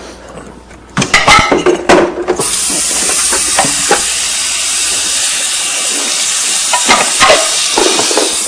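A few knocks and clatters, then water running hard from a tap or shower head in a steady rush for about six seconds, shut off right at the end, with another couple of knocks near the end.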